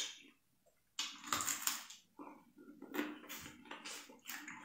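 Close-up eating sounds: crunchy, crackly chewing of a piece of crab, in several short bursts a second or so apart.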